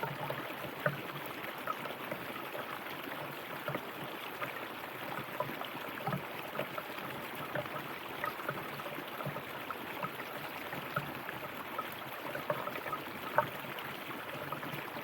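River water flowing and gurgling over rocks, a steady rushing with many small splashes and a couple of brief louder splashes.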